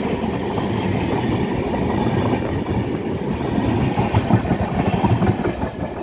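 Train running on the rails, with a steady rumble of the wheels and cars.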